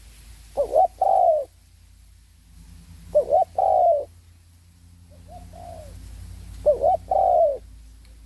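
Spotted dove cooing: three loud phrases about three seconds apart, each two quick short notes followed by a longer drawn-out note, with a softer single coo between the second and third phrase.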